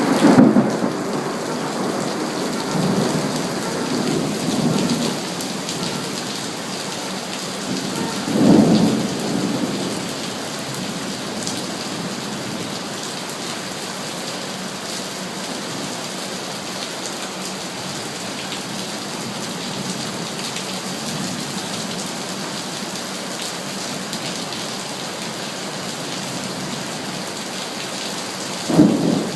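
Steady heavy rain with rolls of thunder: a low rumble at the start, a stronger one about eight seconds in, and another near the end.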